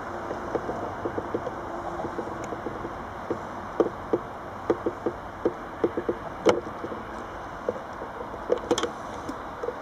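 Slow-moving freight train in a rail yard: wheels clack and clank irregularly over rail joints and points, a few knocks a second with some sharper ones, over a steady rumble.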